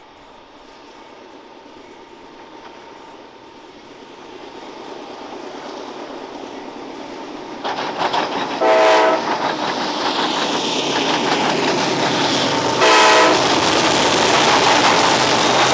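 A CSX freight train approaching, its rumble building steadily. The locomotive's air horn then gives two short blasts about four seconds apart, while the wheels clatter rapidly over the rail joints as the train goes by.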